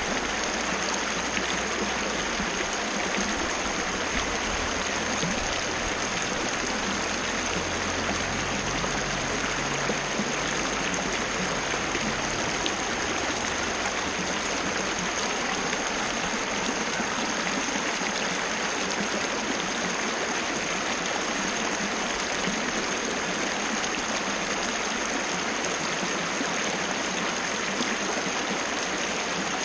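Waterfall rushing steadily: an even, unbroken sound of falling and splashing water, with a thin steady high tone running through it.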